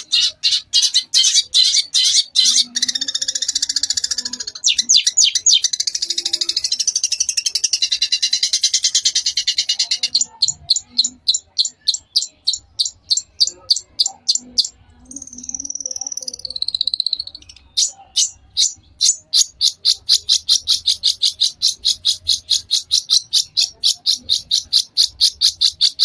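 Long-tailed shrike (cendet) singing: long runs of sharp, high, rapid-fire notes about five a second, broken by a dense chattering stretch about three seconds in and a single falling whistle about two thirds through.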